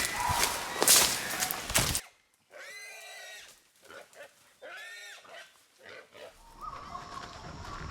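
Loud crackling and crunching of movement through dry scrub for about two seconds. It then cuts off suddenly to a quieter stretch with a few short, arched animal calls, about two seconds apart.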